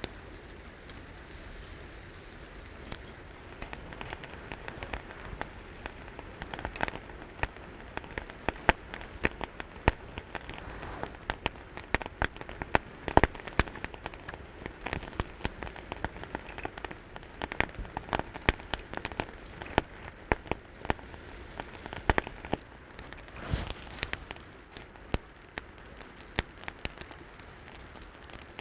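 Chicken feet sizzling over a wood-charcoal fire, with dense, irregular pops and crackles.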